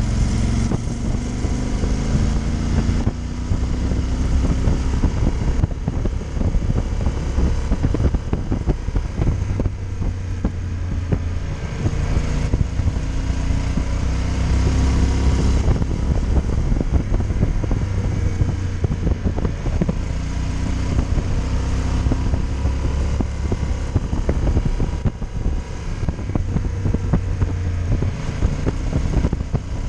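Motorcycle engine running on the move, its pitch rising several times as the throttle opens, with wind noise over the microphone.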